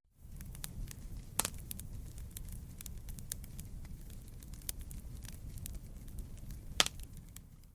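Wood campfire crackling: a steady low rumble of flames with many small pops, and two louder snaps about a second and a half in and near the end. The sound fades in from a short silence at the start and drops out just at the end.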